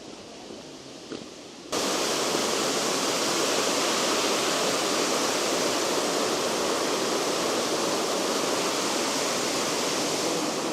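Faint footsteps, then, about two seconds in, a sudden change to steady rushing water, like water pouring over a cascade or weir between lakes.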